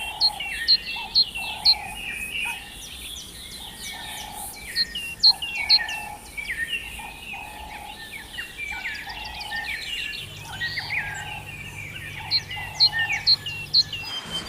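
Songbirds singing in fast, dense chirps and trills, with a lower note repeated about once a second underneath. A low steady hum comes in about ten seconds in.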